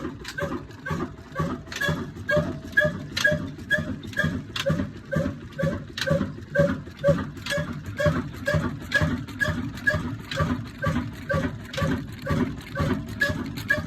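Old 'black engine', a slow-speed single-cylinder diesel, running steadily with an even chugging exhaust beat of about two to three beats a second.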